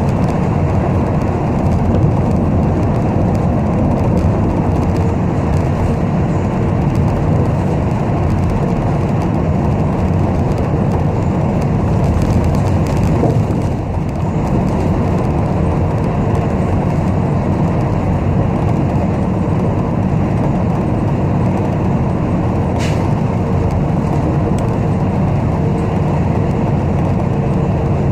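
Steady engine and road noise heard inside the cabin of a moving city bus, with a faint steady whine running under it. A brief high squeak comes near the end.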